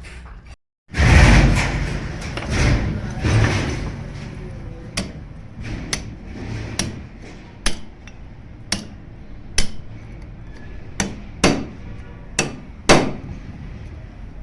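Hammer striking the metal parts of a half-horsepower water pump being dismantled. A loud, rough stretch of knocking comes first, then sharp single strikes about once a second.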